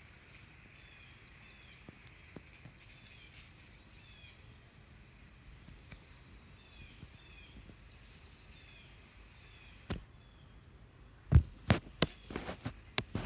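Faint outdoor ambience with small birds chirping, many short falling chirps. Near the end comes a quick cluster of sharp knocks and rustles close to the microphone, much louder than the birdsong.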